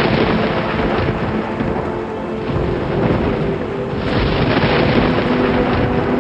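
Thunder rumbling over steady heavy rain, the rain's hiss swelling about four seconds in.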